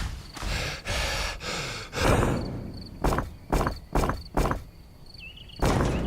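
A scraping noise, then a series of sharp knocks, about two a second.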